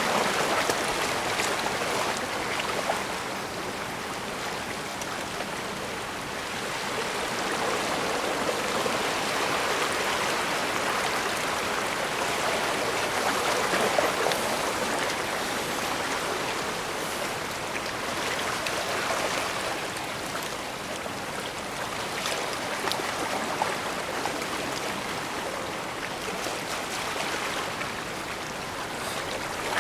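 Bay water washing and lapping at the shore: a steady rushing that swells and eases every several seconds, with a few small splashes.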